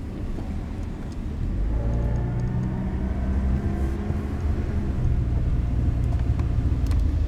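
Car engine and road rumble heard from inside the car, the engine note rising as it accelerates from about a second and a half in.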